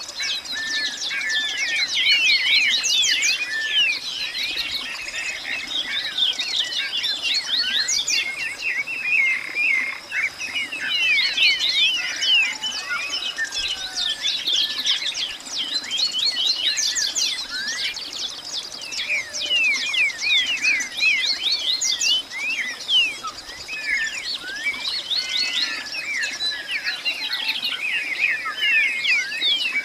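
Many birds chirping at once in a dense, continuous chorus of short, quick chirps and trills, with a thin steady high tone underneath.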